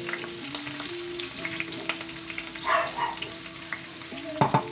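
Chopped onion and garlic sizzling in hot olive oil in a frying pan, a steady crackle, with a few sharp knocks near the end.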